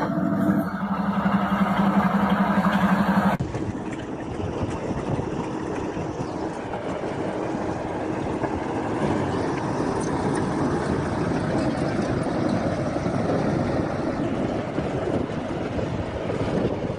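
A heavy vehicle's engine running with a steady drone. About three seconds in it cuts abruptly to continuous rumbling machine and vehicle noise.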